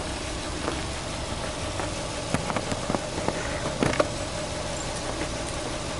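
Subaru Legacy 2.5GT's turbocharged 2.5-litre flat-four boxer engine idling steadily. A few short clicks sound over it around the middle.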